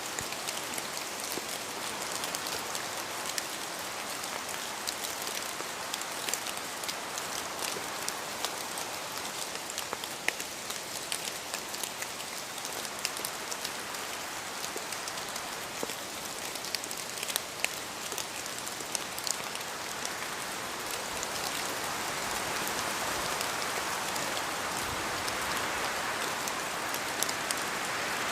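Steady rain in a forest, with many separate drops pattering and ticking as they fall from the trees; the rain swells slightly near the end.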